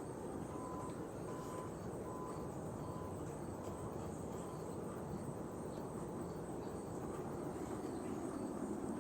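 Steady outdoor background noise, with a faint short high note repeating about every three-quarters of a second that fades away about halfway through.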